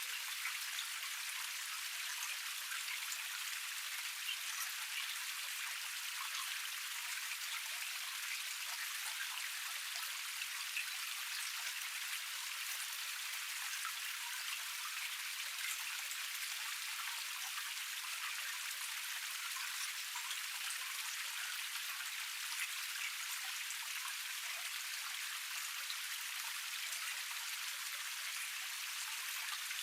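Small cascade waterfall splashing steadily: an even, high hiss of falling water, dotted with fine droplet splashes.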